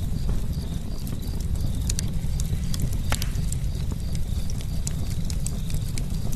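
Campfire crackling: burning wood gives scattered sharp pops and snaps over a steady low rumble of the flames, with one louder pop about three seconds in.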